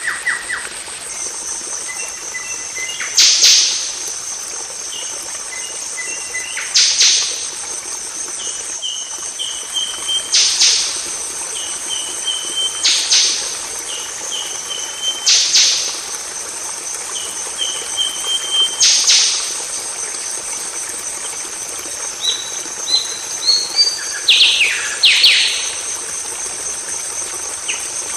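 Golden oriole calling over and over, a phrase about every two to three seconds: a short run of rising notes and a sharp harsh burst. The calls grow busier near the end, over a steady high-pitched drone.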